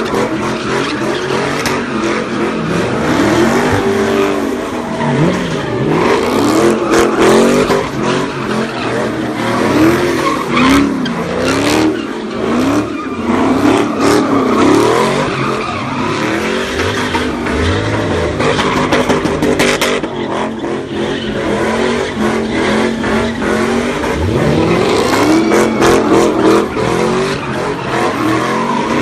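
A car engine revving hard, its pitch rising and falling over and over, with the tyres squealing as the car spins at a street sideshow.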